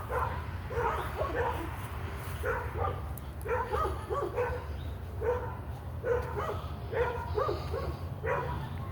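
Neighbourhood dogs barking, short barks coming irregularly about once a second, one dog's barking setting off others.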